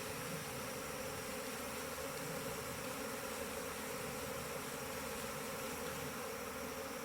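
A very large honeybee swarm buzzing steadily at close range, an even, continuous hum.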